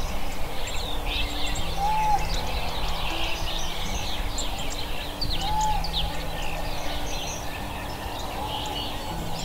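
Many small birds chirping and twittering over a steady low rumble, with a short clear whistled note repeating about every three seconds.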